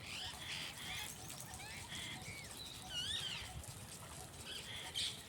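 Several birds calling with short chirps and whistled glides, the loudest a wavering call about three seconds in and a sharp call near the end, over the steady hiss of sprinkler water spray.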